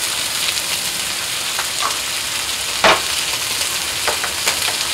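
Pork chops, diced Spam and red bell pepper sizzling in hot oil on a Blackstone flat-top griddle: a steady hiss with scattered pops, one much louder about three seconds in.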